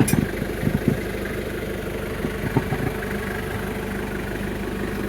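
Car engine idling steadily, with a few light knocks in the first second.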